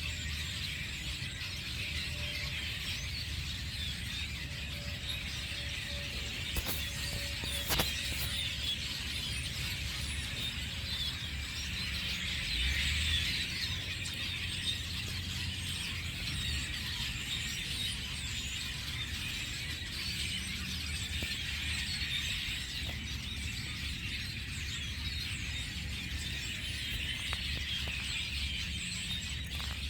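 A large flock of small birds chirping and chattering together in a dense, continuous chorus of high chirps, over a low steady rumble. Two sharp clicks come about seven and eight seconds in.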